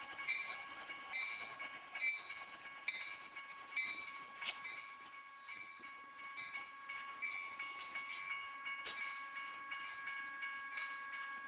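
General Signals type 1 electronic bells at a railroad crossing ringing, a repeating ding just under once a second over steady high tones, with a train passing on the rails.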